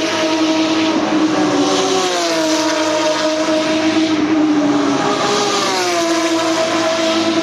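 Porsche 911 GT3 Cup race cars' flat-six engines running at high revs, loud and continuous. The engine note holds level and then drops in pitch several times.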